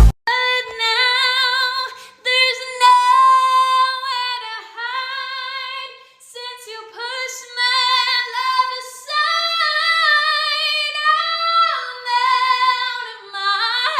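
A high female voice singing unaccompanied, long held notes with vibrato, in several phrases with short breaks between them.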